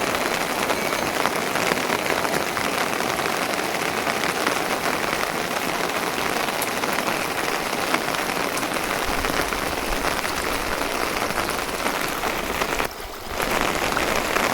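Steady rain falling, an even hiss of drops, dipping briefly near the end.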